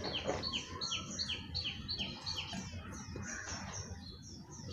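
Birds chirping: a rapid run of short high notes, each dropping at its end, repeating about three times a second, with higher notes over them.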